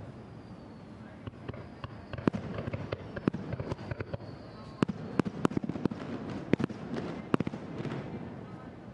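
Aerial fireworks going off in a rapid barrage of sharp bangs and cracks, thickest from about two to eight seconds in, over a rumble of earlier bursts.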